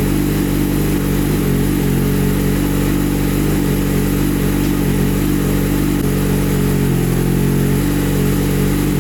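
Yamaha R6 inline-four with an Akrapovic titanium full exhaust system idling at a steady speed.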